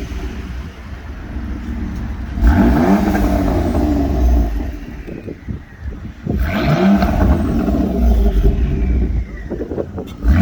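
Car engine with its stock exhaust resonator being revved: two throttle blips about four seconds apart, each rising in pitch and falling back to idle, with a third rev starting at the very end.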